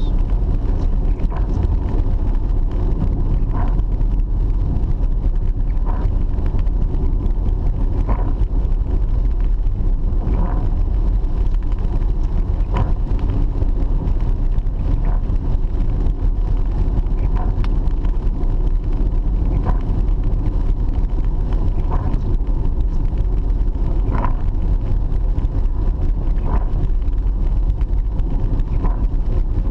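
Car driving, heard from inside the cabin: a steady low road and engine rumble. A short sound repeats about every two and a quarter seconds throughout.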